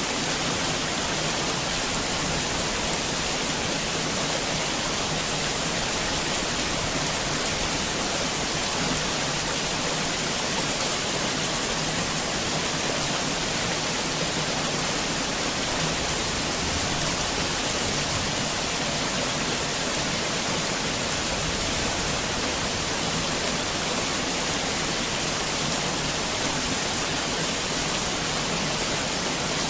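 Steady heavy rain falling, an even hiss of countless drops with no separate events.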